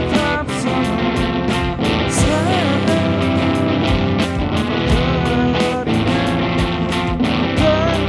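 Rock band playing live: electric guitars and bass over a drum kit keeping a steady beat of cymbal and drum hits. The lead guitar is set too loud and the bass too low in the mix.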